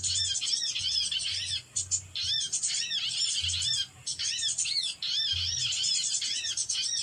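Small birds chirping rapidly and continuously: a dense run of short, high, arched notes, several a second, with brief pauses a few times.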